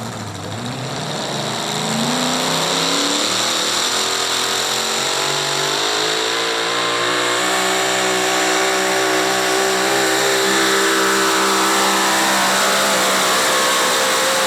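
Pulling truck's engine at full throttle during a pull down the track: it builds over the first couple of seconds, then holds loud and steady while the pitch slowly climbs.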